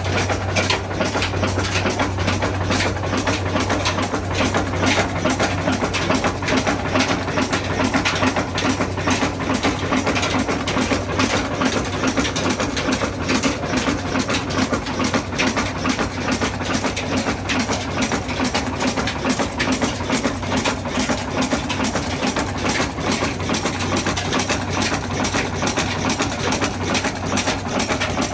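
Ruston engine running steadily, with a rapid, even knocking beat over a low hum.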